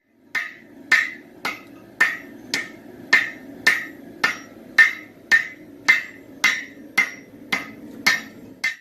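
Hammer striking hot steel on an anvil, about sixteen even blows a little under two a second, each with a short metallic ring, while forge welding an axe. A steady low hum runs underneath.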